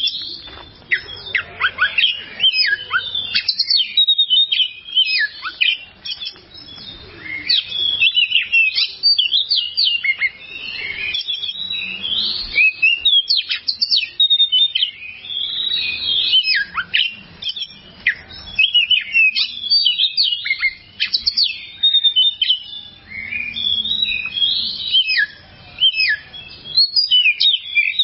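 Oriental magpie-robin (kacer) singing a long, varied song of fast whistles, chirps and quick up-and-down notes, with only short pauses between phrases.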